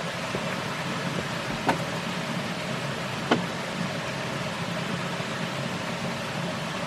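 Steady hissing background noise with two sharp knocks, about a second and a half apart.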